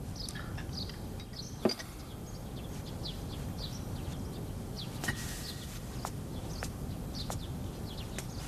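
Small birds chirping in quick short calls over a low, steady background rumble, with one sharp knock about one and a half seconds in.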